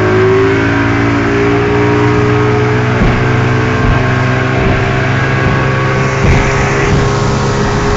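Speedboat's outboard engines running at speed, a loud steady drone whose pitch drifts slightly, with the rush of water and wind over the hull.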